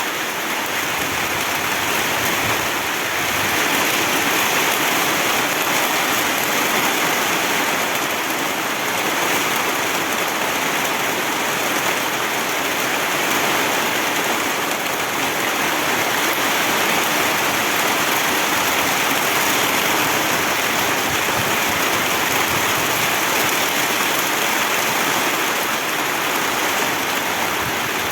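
Heavy rain falling steadily in a loud, even downpour.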